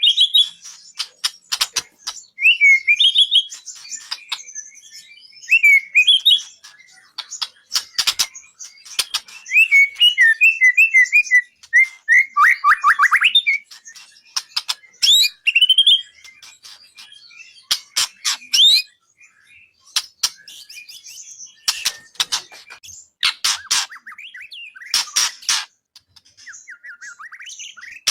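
White-rumped shama (murai batu) singing: varied whistled phrases and trills mixed with clusters of sharp, rattling chatter notes, in bursts with short pauses between them.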